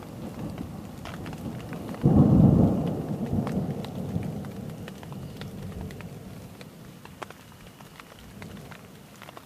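Thunderstorm: a loud thunderclap breaks about two seconds in and rumbles away over the next few seconds, over steady rain with scattered drops hitting close by.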